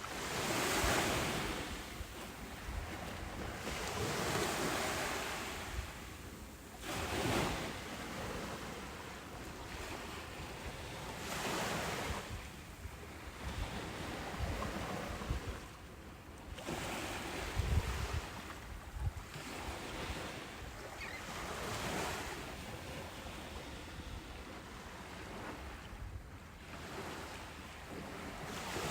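Ocean surf on a beach: waves breaking and washing up the shore, a rushing hiss that swells and fades every few seconds.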